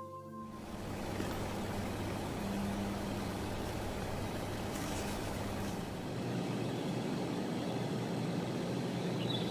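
Steady factory machinery noise: an even rushing haze with a faint low hum underneath, running without a break after some music ends at the start.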